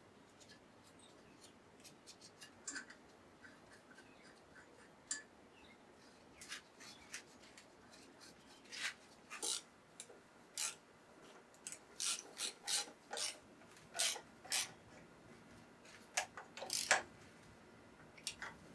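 Hand work on engine parts: irregular short clicks, scrapes and rubbing of metal parts and tools, coming thicker and louder in the second half.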